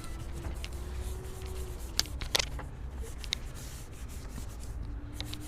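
Brush scrubbing over engine parts in the engine bay, with a few sharp clicks about two seconds in.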